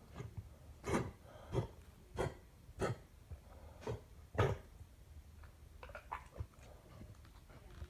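A dog coughing: a run of about six short, harsh coughs, the last and loudest about four and a half seconds in, followed by a few fainter short sounds.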